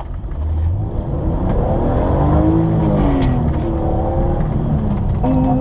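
A car engine revving, its pitch climbing and then dropping away over a couple of seconds, over steady low road rumble.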